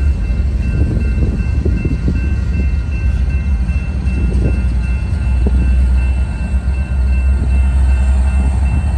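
Double-stack intermodal container train rolling past at close range: a loud, steady deep rumble of the cars, with irregular knocks from the wheels over the rail joints.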